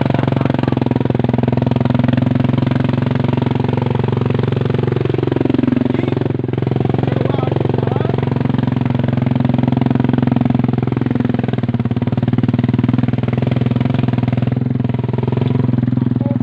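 Motorcycle engine running steadily at a low pitch, its note dipping and rising briefly about a third of the way through.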